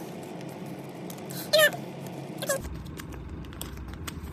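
A short, high-pitched, wavering call, heard twice about a second apart, among light clicks of paper and stickers being handled.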